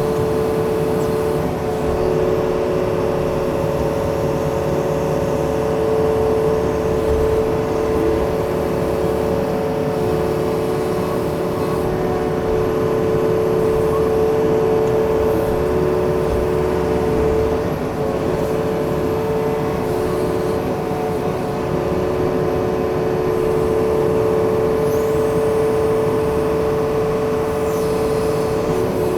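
Yanmar diesel machine's engine running steadily under work, a continuous drone with a steady hum that holds throughout.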